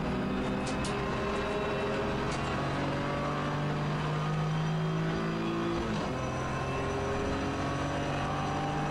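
Race-prepared BMW E46 325ti Compact's 2.5-litre straight-six engine pulling under full throttle from inside the cabin, its pitch climbing steadily. About six seconds in an upshift drops the pitch, and it climbs again in the next gear.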